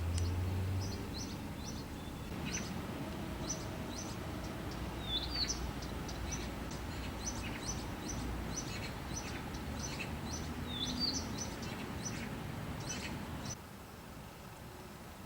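Small birds chirping: many short, irregular high chirps, some slurred downward, over a steady low rumble that drops away near the end.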